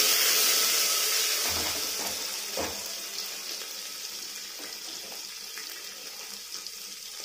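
Paneer cubes sizzling in hot oil with cumin seeds in a pressure cooker, the sizzle fading steadily. A few light knocks in the first three seconds.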